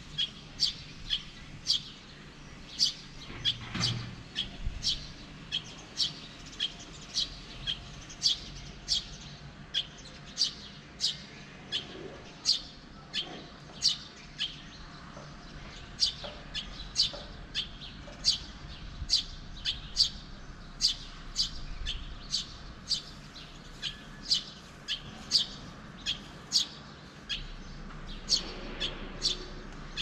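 A small bird chirping over and over: short, sharp, high chirps about one or two a second, with a faint steady background hum.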